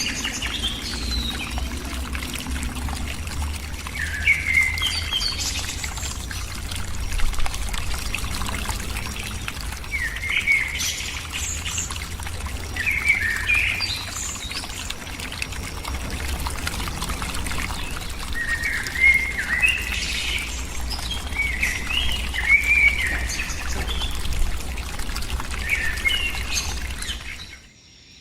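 A bird calling again and again in short chirping phrases a few seconds apart, over a steady trickle of running water. The sound cuts off just before the end.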